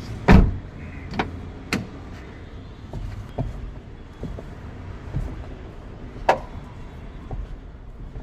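Renault car door being swung open and shut on its door limiter (check strap), giving a heavy thud just after the start and then several sharp knocks. The knocking is the sign of a limiter whose rollers are worn.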